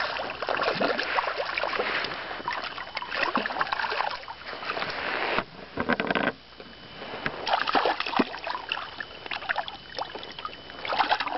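Water splashing and sloshing against the side of a fishing boat, in irregular crackly bursts. It cuts out suddenly about five and a half seconds in and picks up again about a second and a half later.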